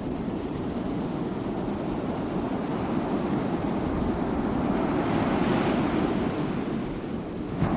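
Sea waves surging and washing in a steady rush of surf, with one wave swelling louder about two-thirds of the way through.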